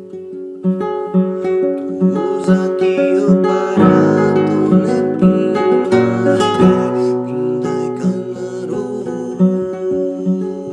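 Acoustic guitar music, plucked and strummed with a steady repeating pulse, growing fuller and louder in the middle for about three seconds.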